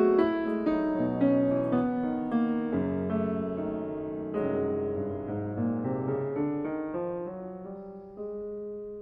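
Background music: solo piano playing a slow, gentle melody with chords, growing quieter toward the end.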